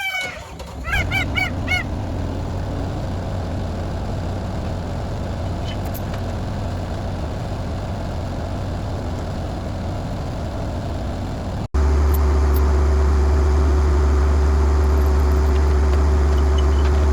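A turkey gobbles in a quick series about a second in, over the steady running of a tracked skid steer's engine. After a brief cut about two thirds through, the engine is louder and carries a steady hum.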